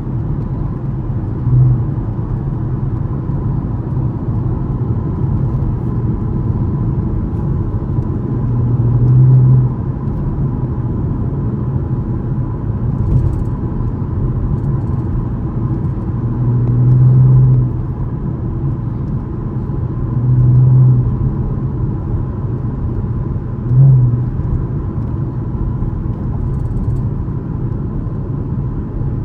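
A 2013 Chevrolet Camaro LS's 3.6-litre V6 running under way, with a steady rumble. The engine swells louder about five times in short bursts of throttle.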